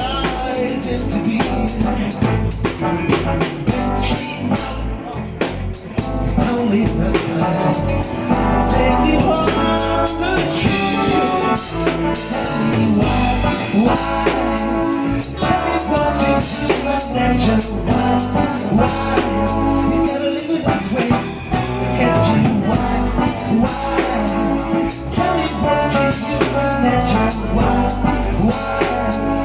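A band playing a blues-style song, with drum kit and guitar.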